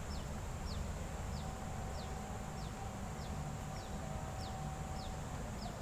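A bird repeating one short, high, falling note about every two-thirds of a second, over a low rumble from the microphone outdoors and a faint steady high-pitched hum.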